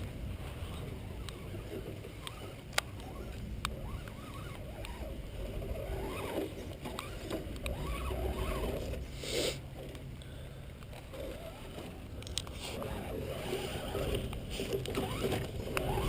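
Battery-powered toy truck's electric motor whining up and down with throttle as it drives over rough ground, with scattered sharp clicks and a low rumble; its battery is running nearly flat.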